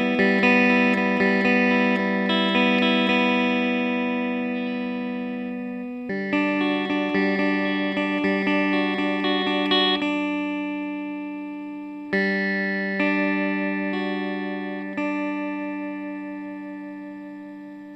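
Background music on plucked guitar: a chord struck about every six seconds and left to ring and fade, with single picked notes over it.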